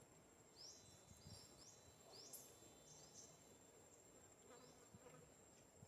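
Faint forest insects: a steady high-pitched whine, with a run of short high chirps in the first half.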